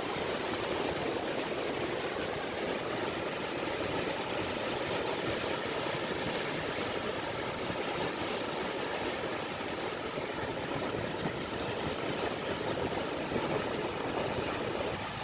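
Small sea waves washing steadily on the shore, with a steady motor hum underneath.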